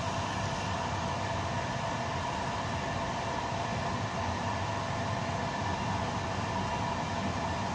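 Steady running noise of an Intercity passenger train heard from inside its rear end: wheels rolling on the rails with a low rumble and a few steady humming tones over it.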